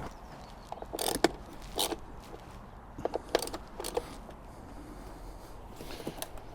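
Scattered short clicks and knocks of hand work on a motorbike, about half a dozen at irregular intervals, as the seat is set in place and its bolts are fitted.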